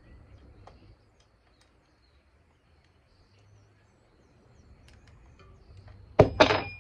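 A short metallic clatter about six seconds in, two quick hits with a brief ring after them, like a wrench set down on metal; before it, only a few faint clicks.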